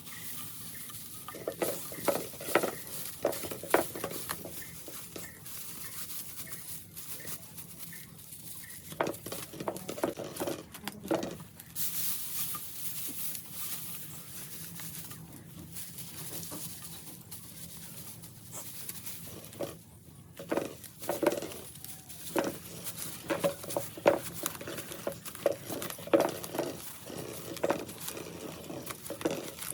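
Dry straw and twigs being handled and woven by hand: irregular rustling and crackling in clusters, quieter for a few seconds at a time, over a steady hiss.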